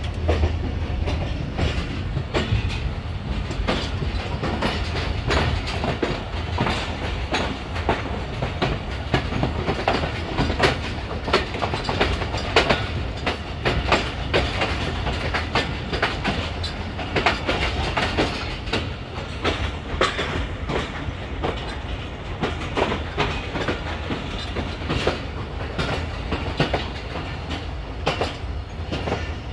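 Passenger coach of the Shah Latif Express rolling out of the station, heard from its open doorway: a steady low rumble of the running gear with frequent clicks and knocks as the wheels cross rail joints.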